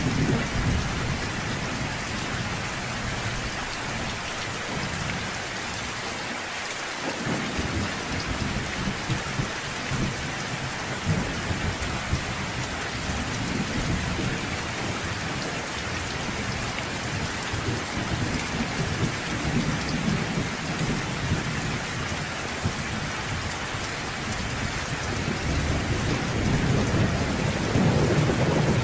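Steady rain falling, with low rolling thunder rumbling underneath; the thunder swells louder over the last few seconds.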